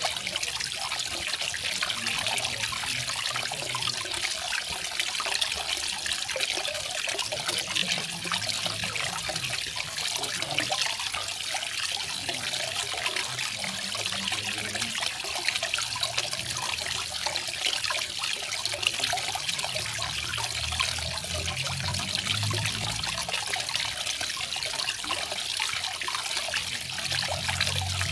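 Garden waterfall: water falling and splashing steadily, with a faint low rumble that comes and goes.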